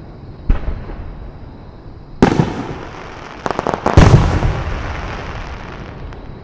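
Aerial firework shells bursting: a bang about half a second in, a heavy boom around two seconds, a quick run of sharp cracks, then the loudest boom about four seconds in, each boom trailing off in a long rolling echo.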